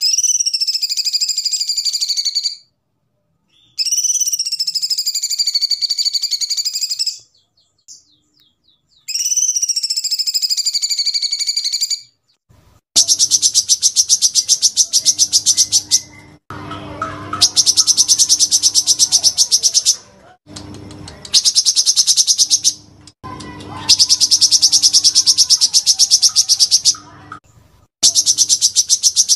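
Recorded songbird calls of the kapas tembak and cucak cungkok: first three long whistled notes, each sliding down and then held for about three seconds, then from about twelve seconds in, rapid machine-gun trills in bursts of three to four seconds. A faint steady hum sits under the trills.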